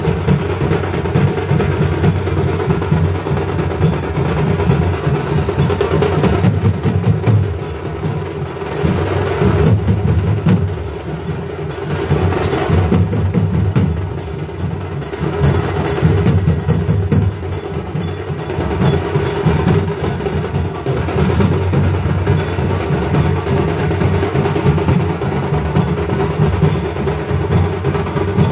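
Loud, continuous percussion music: drums played in a busy, steady beat with sharp clicking strikes over them, easing a little for a moment about a third of the way in.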